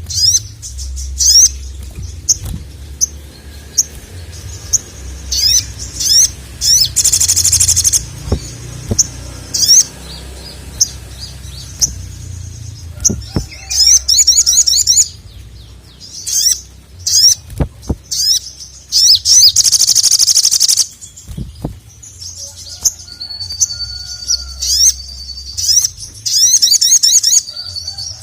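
A sogon (sogok ontong) sings energetically in repeated bursts of high, rapid, sliding chirps and trills, with short pauses between phrases. A steady low hum runs underneath.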